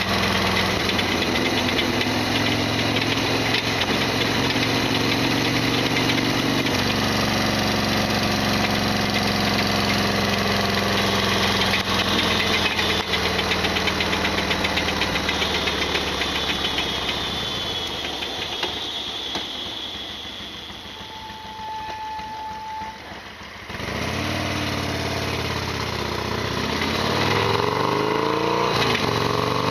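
Harley-Davidson Sportster XL1200R's 1200 cc air-cooled V-twin running under way, with the loud rattling that the owner calls an abnormal noise. About two-thirds of the way through it goes quieter as the throttle is closed, then comes back and rises in pitch as the bike accelerates near the end.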